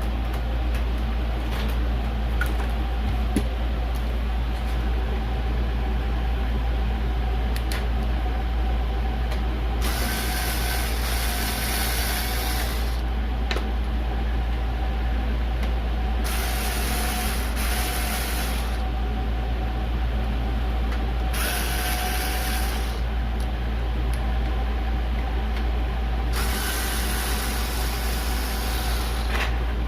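Four hissing bursts, each two to three seconds long, over a steady low hum, with a few light clicks of handling in the first ten seconds.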